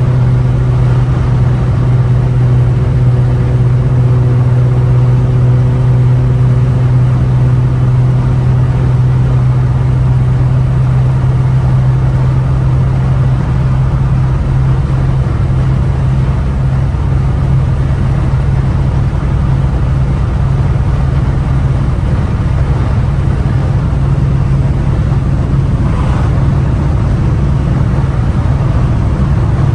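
Catless, straight-piped exhaust of a 2015 Ford Taurus Limited droning steadily at a constant pitch while cruising at highway speed, over an even rumble of road noise.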